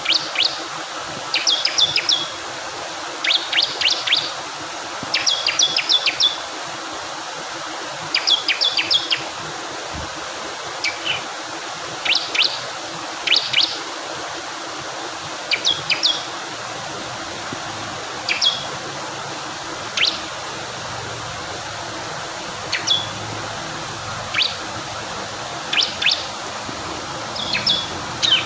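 Bar-winged prinia (ciblek kristal) singing in short bursts of sharp, high repeated chips every second or two. Underneath runs a steady rush of flowing water.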